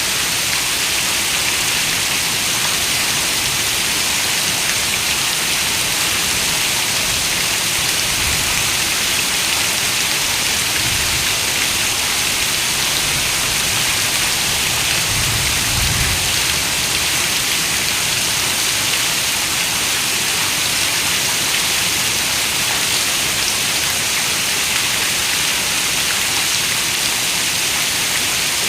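Steady rain, a dense even hiss, with a few soft low swells of rumble partway through.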